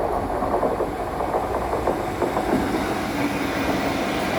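Freight train hauled by a Class 66 diesel locomotive passing at close range, its wagons rumbling and clattering over the rail joints in a steady stream of clicks.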